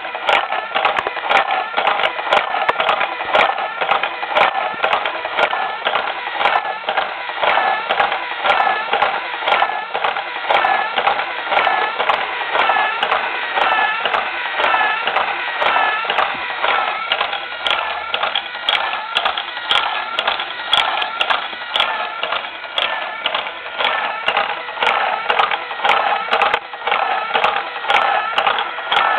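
Lego Mindstorms NXT model two-cylinder crank engine running, its plastic pistons, rods and crank clattering and clicking continuously, with a whine that dips and rises over and over.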